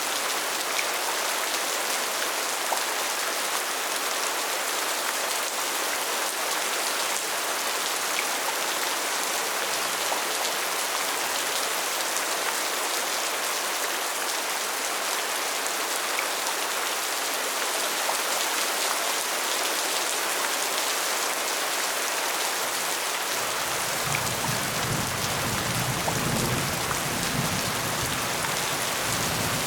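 Steady rain falling, a dense even hiss of drops. About 23 seconds in, a deeper low layer joins underneath.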